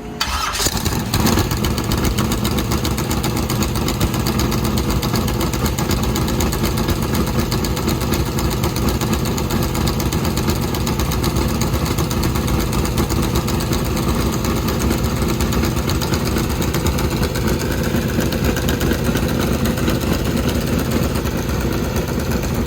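Corvette drag car's new engine firing up with a quick rev in the first second, then settling into a steady, even idle.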